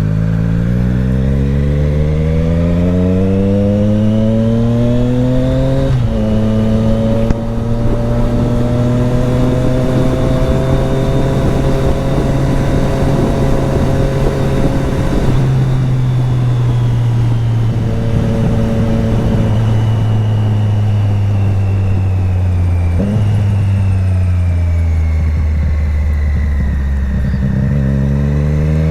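2020 Triumph Street Triple RS's 765 cc three-cylinder engine under way with a passenger aboard. It revs up through a gear, drops in pitch at an upshift about six seconds in, pulls at fairly steady revs through the middle, shifts down in pitch again around twenty-three seconds, and climbs in revs once more near the end.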